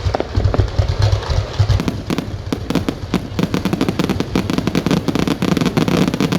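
Fireworks going off in rapid succession: a dense, continuous crackle of many sharp bangs a second over a low rumble.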